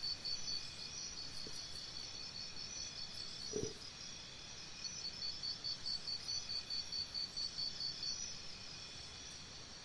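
Faint crickets chirping in a steady high pulse, about four or five chirps a second, with a short break midway. A single soft knock about three and a half seconds in.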